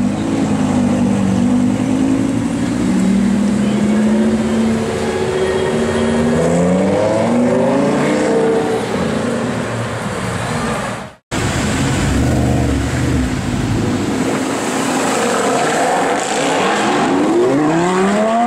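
Lamborghini Gallardo LP560-4's V10 engine with an Armytrix valvetronic exhaust running, then revving up with rising pitch as the car pulls away and accelerates. After a sudden break a little past halfway, a car engine accelerates again near the end, pitch climbing.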